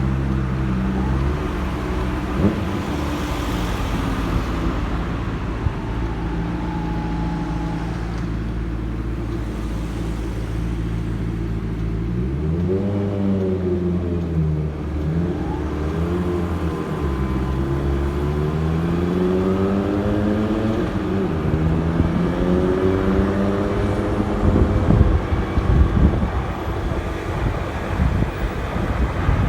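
Motorcycle engine idling steadily, then pulling away about twelve seconds in, its pitch rising and falling through several gear changes. Wind buffets the microphone near the end as speed picks up.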